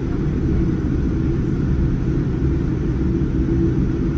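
Steady low rumble of a Boeing 787-9's engines and airflow heard from inside the passenger cabin, with a faint steady hum over it.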